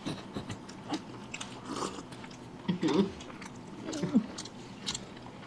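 People chewing food with mouths full, with scattered wet smacks and clicks, and short murmured voice sounds about three and four seconds in.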